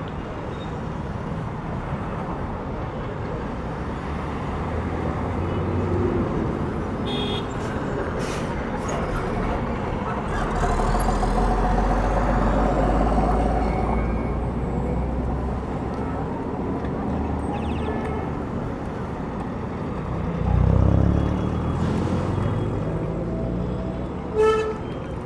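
City street traffic: a steady wash of cars and heavier vehicles passing, with the deep rumble of a large vehicle going by midway and a louder engine surge late on. A short car horn toot near the end.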